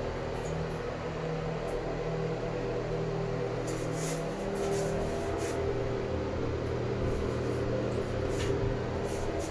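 Steady hum of an electric motor with several steady tones, its pitch shifting slightly about four seconds in.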